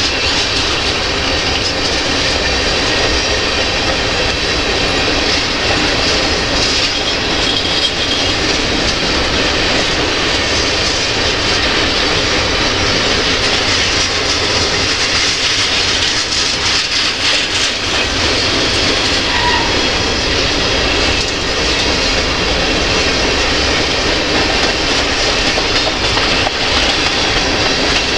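Freight cars of a mixed freight train (covered hoppers, tank cars, a boxcar) rolling steadily past close by: a continuous rumble and rattle, with steel wheels clicking over the rail joints.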